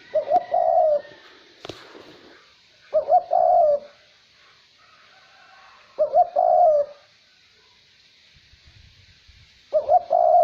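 Male 'cu moi' dove cooing: four short cooing phrases, each about a second long and about three seconds apart. Under them runs a faint steady hiss of light wind, with one brief click a little under two seconds in.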